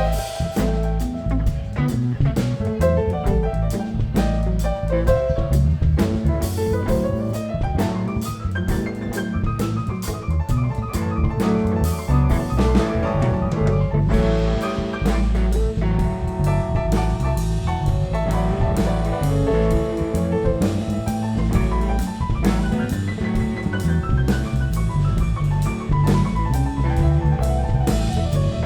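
A live rock band plays an instrumental passage with no singing: drum kit, bass, and a melodic lead line that runs up and down in quick phrases.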